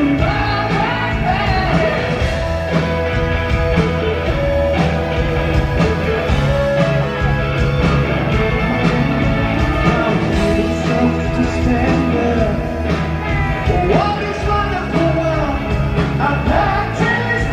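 Rock band playing live, with a lead vocal singing over the full band.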